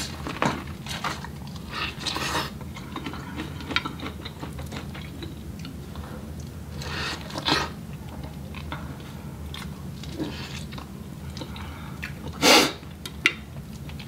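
Close-miked biting and chewing of buttery corn on the cob, with irregular wet crunches and mouth sounds. A louder, sharper bite or smack comes near the end. A steady low hum runs underneath.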